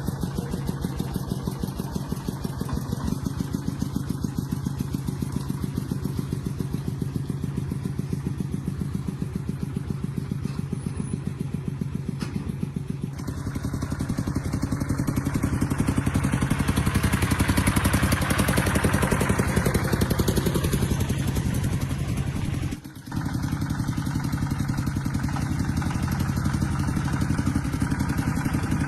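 Truck engine running at idle with a fast, even pulse. Around the middle it grows louder and brighter for several seconds, then settles back, with a brief drop about three-quarters of the way through.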